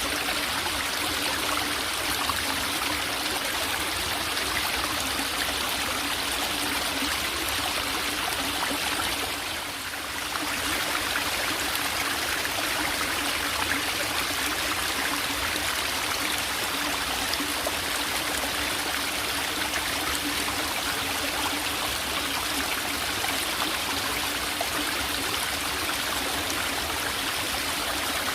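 Small forest valley stream babbling and trickling steadily, with a brief dip in level about ten seconds in.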